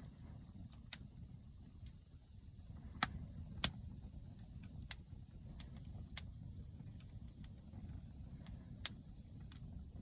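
Wood campfire crackling over a low steady rumble, with scattered irregular pops, the two loudest about three seconds in.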